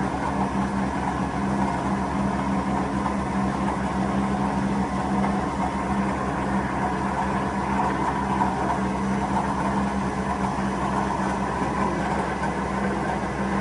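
Colchester CNC flat-bed lathe running, a steady machine hum with a low drone that does not change.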